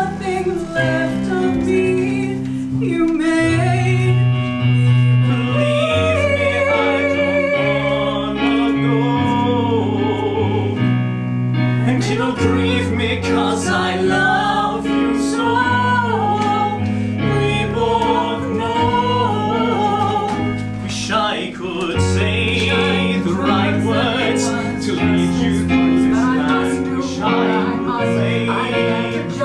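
A song from a musical: singing voices, with long held and wavering sung notes, over instrumental accompaniment.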